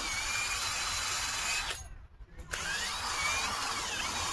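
Cordless power drill running steadily, stopping for about a second near the middle, then starting again with a short rising whine as it spins back up.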